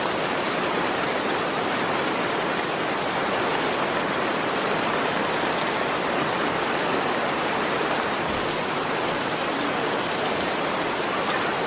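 Steady heavy rain, an even rushing hiss without break.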